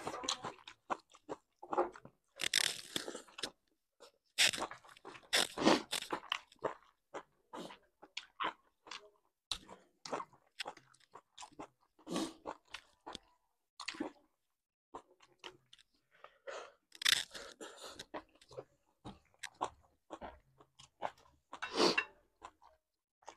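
Close-up mouth sounds of people eating: chewing and crunching food with wet clicks and smacks, coming in irregular bursts, with a few louder crunches about 3 s, 5 s, 17 s and 22 s in.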